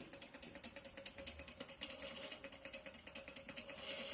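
Small plate-type Stirling engine, heated from below by boiled water, running on its own with a rapid, even ticking from its moving parts. A short hiss rises near the end.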